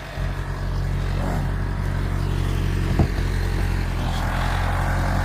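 Backhoe engine running steadily at a low, even pitch, with one sharp click about three seconds in.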